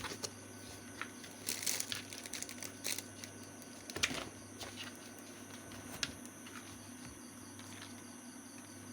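A cat at play with a person: rustling and crinkling with light clicks and taps, in short irregular bursts that are busiest in the first half, over a steady low hum.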